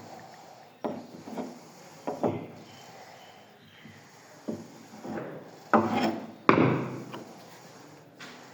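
A series of short scraping and rubbing strokes on wood, about eight of them, the loudest two a little past the middle. They come from working a sawdust-and-superglue filler into a damaged spot in the wood.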